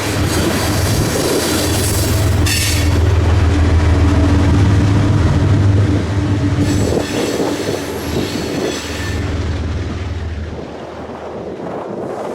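Freight train rolling past, with a steady low rumble of wheels on rail. Brief high-pitched wheel squeals come about two seconds in and again from about seven to nine seconds in, and the rumble drops away near the end.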